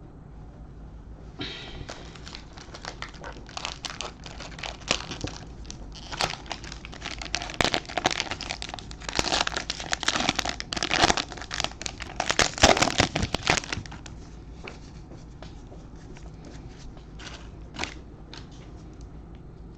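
Trading card pack wrapper being torn open and crinkled for about twelve seconds, loudest near the middle, followed by a few light clicks as the cards are handled.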